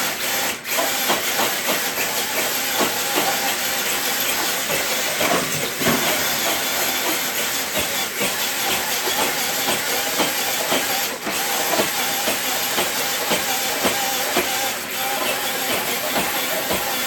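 Radio-controlled truck dragging a weighted pull sled over rough ground: a steady gritty scraping hiss full of small clicks and crackles, with a faint steady motor whine underneath.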